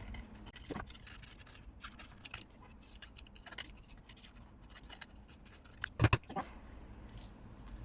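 Scissors cutting around a drawn paper cut-out: a run of small snips and paper scratching, with a louder knock about six seconds in.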